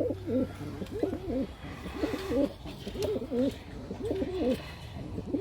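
Pigeons cooing, a run of short, low, warbling coos repeated every half second or so, over a steady low hum.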